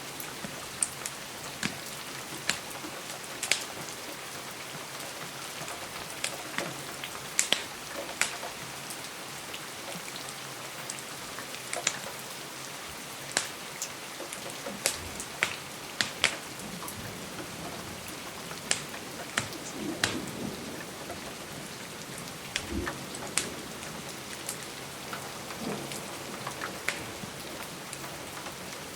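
Steady rain hiss mixed with fireplace crackling: scattered sharp crackles and taps, sometimes several in a second, over the even sound of the rain.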